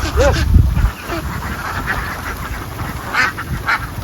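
A crowd of domestic ducks quacking, with short calls over a steady noisy din. A loud low rumble comes in the first second.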